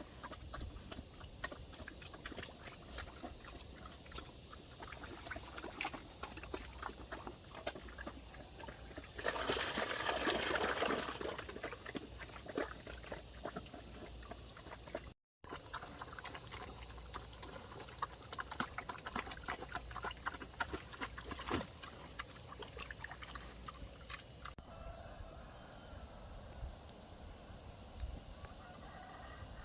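A chorus of insects giving a steady, high-pitched drone, with many scattered clicks and rustles. About nine seconds in, a louder rush of noise lasts roughly two seconds.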